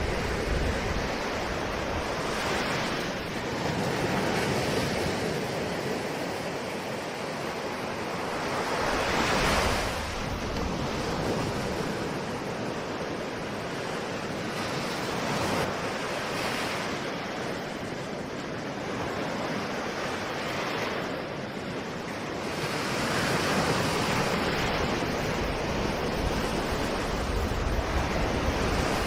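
Ocean surf: waves breaking and washing in as a continuous rush that swells every few seconds, the strongest surge about ten seconds in.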